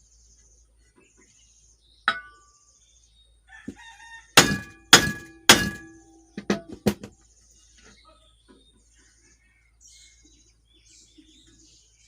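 Hammer strikes on a metal shaft driving into wax packed behind a ceiling-fan bearing, the wax forcing the stuck bearing out of its housing. There is a single sharp knock about two seconds in, then three loud ringing strikes in quick succession around the middle, and two lighter knocks just after.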